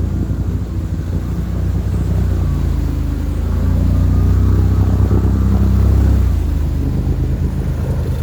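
Honda Pioneer 1000 side-by-side's engine running steadily while it drives through deep water. It grows a little louder midway and changes pitch about six seconds in.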